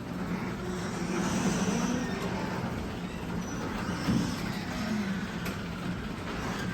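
Linear garage door opener motor running with a steady hum as it drives the garage door closed, along with the noise of the door travelling on its track.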